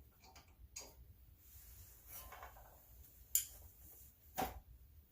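Faint handling noises during brake work: scattered light rubbing and a few sharp clicks and knocks, the clearest about three and a half and four and a half seconds in.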